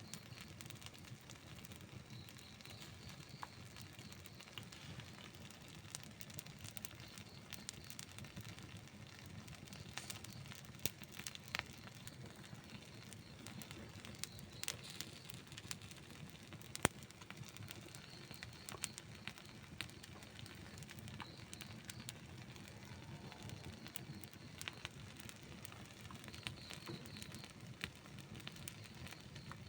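Outdoor wood campfire burning, with a steady low rumble of flames and frequent sharp crackles and pops from the burning wood, a few louder snaps scattered through.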